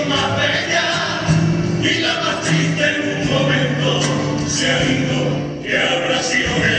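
Cádiz carnival comparsa, a male choir, singing part of its popurrí together over musical accompaniment.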